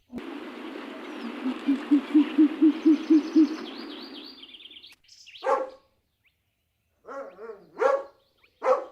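A quick run of about eight low hoots, about four a second, over a steady hiss, then a few short dog barks in the second half.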